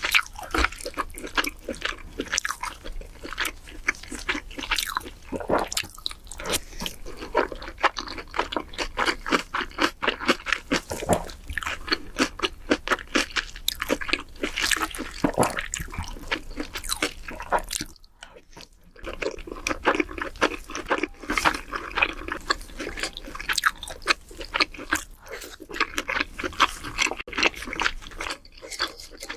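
Close-miked eating sounds: a person crunching and chewing, a dense run of crisp clicks, with a brief pause about two-thirds of the way through.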